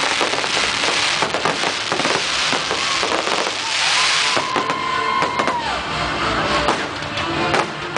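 Fireworks crackling and popping over a dense hissing rush, with music underneath. About halfway through, a held tone sounds for a second or so, then bends down and stops.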